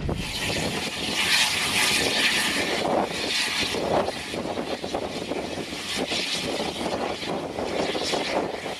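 Train running past below, a steady rushing, rumbling noise with a brighter hiss over the first three seconds.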